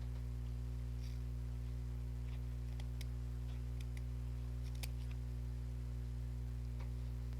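Steady low electrical hum, with a few faint scattered clicks and taps from hands handling craft materials.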